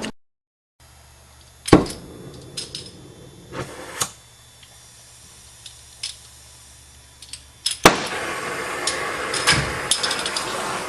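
A few sharp metal clanks and knocks, then about eight seconds in a sharp pop and a steady hiss with crackling as a cutting torch is lit and burns.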